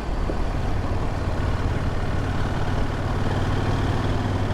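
Adventure motorcycle engine running steadily at low speed on a loose gravel trail.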